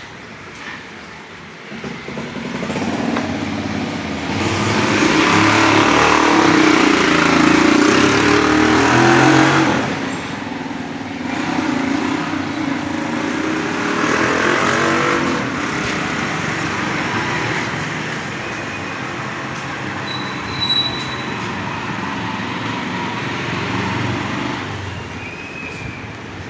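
Road traffic running past, with a vehicle going by close and loud about four to ten seconds in, and more vehicles passing after.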